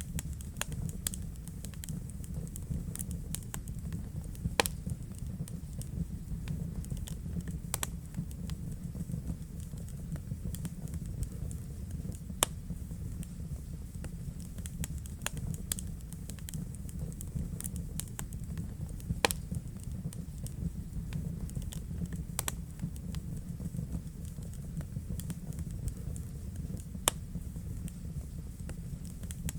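Wood fire burning in a fireplace: a steady low rumble of the flames with frequent small crackles and an occasional louder sharp pop, a handful of them spread through.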